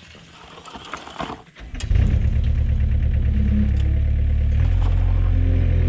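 An engine starts about two seconds in and runs steadily, its note shifting about a second before the end.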